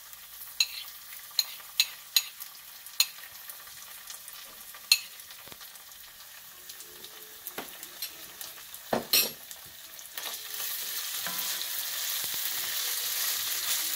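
Onions with ginger and garlic paste frying in oil in a ceramic-lined pan as they are stirred: a steady sizzle with sharp spoon clicks in the first five seconds and a knock a little before ten seconds. The sizzle grows louder from about ten seconds in.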